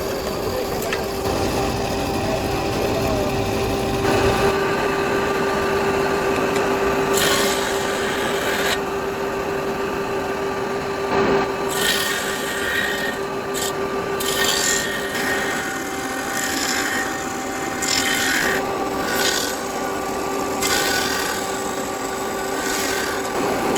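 Power tool in a bone-button workshop running with a steady motor hum while animal bone is ground or cut on it: several rasping passes of a second or two each, starting about seven seconds in.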